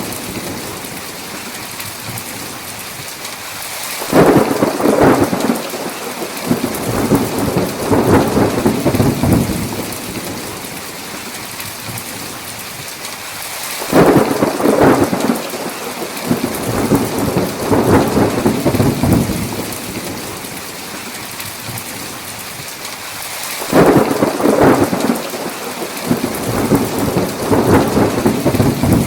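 Steady heavy rain with three rolls of thunder, about ten seconds apart. Each one starts suddenly and rumbles on for about five seconds.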